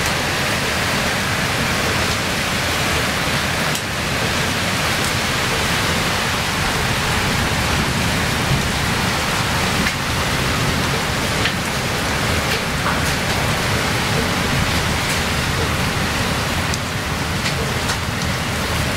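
Heavy rain falling steadily in a thunderstorm, just after the hail has stopped.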